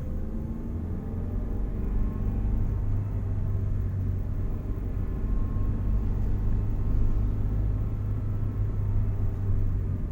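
Vehicle driving along the road: a steady low rumble of engine and road noise.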